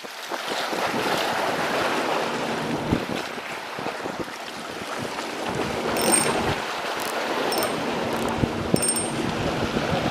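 Strong wind blowing on the microphone over the sound of waves, a steady rushing noise. A few short high ticks come in the second half.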